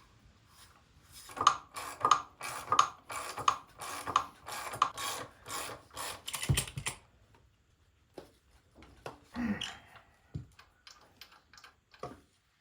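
Hand-tool work on an old power steering pump: a run of about a dozen quick, evenly spaced clicking strokes, two to three a second, ending in a low thump, then a few scattered knocks.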